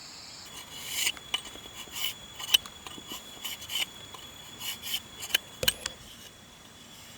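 A run of short, irregular scraping strokes, about a dozen over five seconds, over a steady chirring of crickets.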